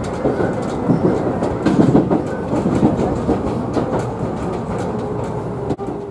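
Tobu Utsunomiya Line local electric train running, heard from inside at the front of the car, its wheels clicking over rail joints and points as it comes into a station. A steady hum sets in about five seconds in.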